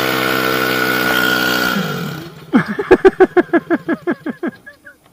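A small pit bike engine held at steady revs, then dying away about two seconds in. It is followed by a run of short laughs, about five a second, fading out.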